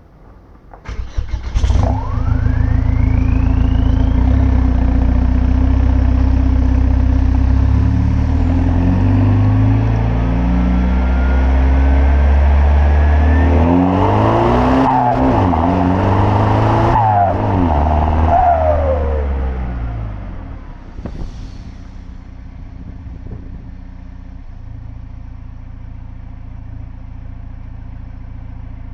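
BMW car engine starting about a second in and running at a fast idle, then revved up and down several times in quick succession, after which it settles to a lower, steady idle.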